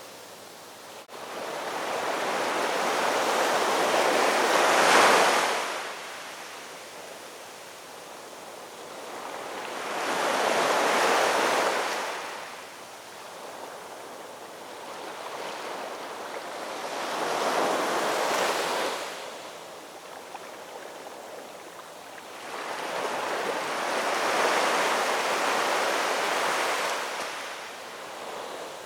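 Ocean surf: four waves swelling and breaking, one about every six or seven seconds, the first the loudest, with a steady wash between them.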